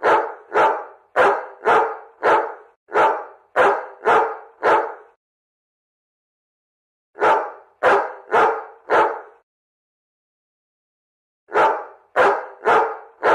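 A dog barking angrily in bouts of sharp, evenly spaced barks, about two a second: a long run at the start, then two shorter runs of four barks, with pauses of about two seconds between them.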